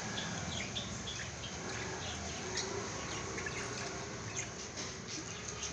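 Many small caged birds chirping at once: a dense chatter of short, high chirps overlapping one another.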